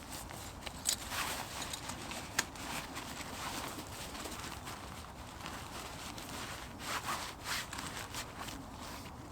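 Footsteps on the woodland floor with rustling and sharp clicks and snaps of camping gear being handled, as camp is packed up.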